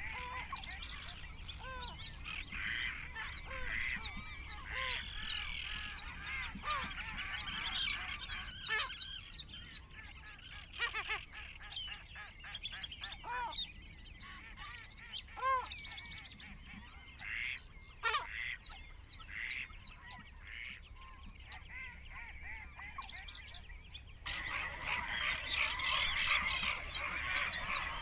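Several birds calling: rapid, repeated high chirps over lower, arching calls. About 24 seconds in it cuts abruptly to a louder, hissier recording of birds calling.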